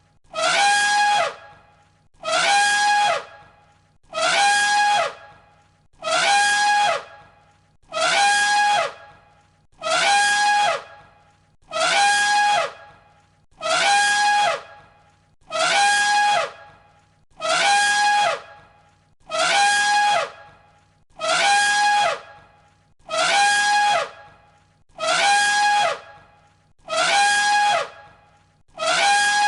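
Elephant trumpeting, one identical short call repeated on a loop about every two seconds. Each call holds a steady high note that drops in pitch as it ends.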